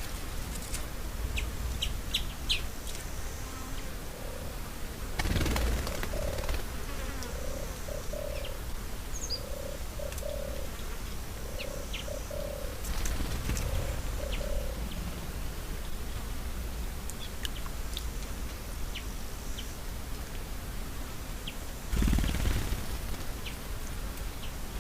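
Wild birds calling outdoors: scattered short, high chirps, and for about ten seconds a series of low, paired cooing notes. Three brief rushes of noise come about five seconds in, near the middle and near the end.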